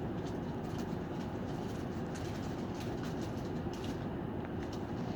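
Interior running sound of a city bus: steady engine and road noise, with small rattling clicks throughout.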